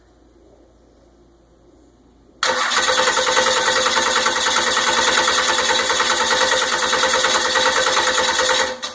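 Starter motor cranking a freshly rebuilt 12-valve 5.9 Cummins inline-six diesel for about six seconds, in an even pulsing rhythm, without it firing, then stopping suddenly. The no-start is one the owner thinks is almost like something wrong with the timing.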